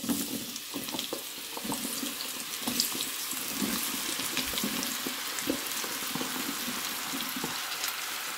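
Floured zucchini and carrot sticks sizzling in hot oil in a frying pan as they are tipped in: a steady hiss with scattered crackles and small knocks of pieces landing.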